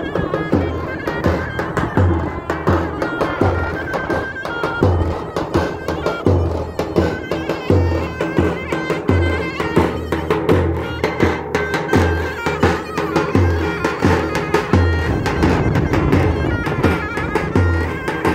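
Davul and zurna playing a Turkish folk tune: the shrill double-reed melody of the zurna over a steady beat of deep strokes on the davul bass drum.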